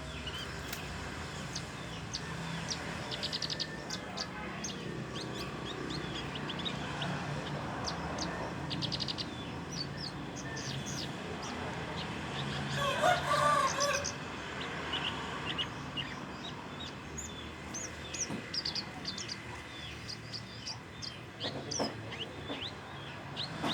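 Young Javan bush lark making short, high chirps and brief trills, a still-unformed song from a bird learning to sing. A rooster crows once about halfway through, the loudest sound.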